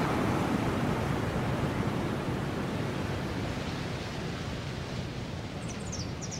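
Steady rushing noise that slowly eases off, with a few short, high bird chirps near the end.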